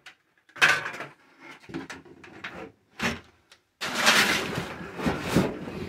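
Sheet-metal pieces of a wood-stove pipe collar and flange being handled: short clanks and scrapes, then a longer scraping rattle in the second half.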